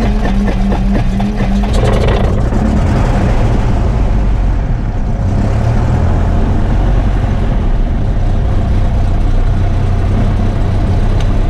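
Cessna 172SP's four-cylinder Lycoming engine being cranked with the throttle fully open and the mixture fully lean, the flooded-engine start technique. It catches about two seconds in and settles into a steady run.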